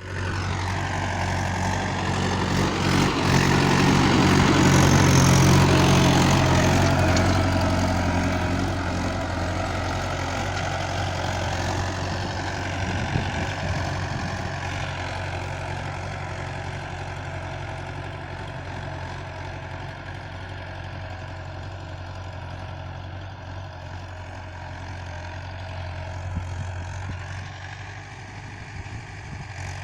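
Mahindra 585 Sarpanch tractor's four-cylinder diesel engine running steadily, growing louder to a peak about five seconds in and then gradually fading.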